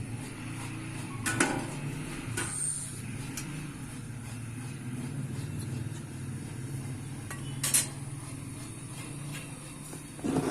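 A steady low mechanical hum, with two short sharp clicks or knocks, one about a second in and one near the end.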